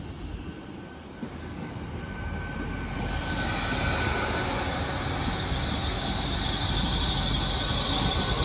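Great Western Railway Class 800 train (unit 800 308) pulling into the platform and slowing to a stop: a rumble builds, and from about three seconds in a steady high squeal from the braking wheels joins it.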